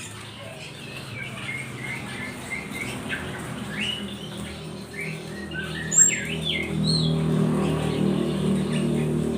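Small songbirds chirping repeatedly in short, quick notes that slide up and down in pitch, with one sharp click about six seconds in. About seven seconds in, a louder low steady hum joins.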